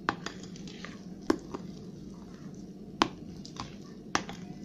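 A spoon stirring wet yeast dough in a bowl, clicking and knocking against the bowl at irregular moments.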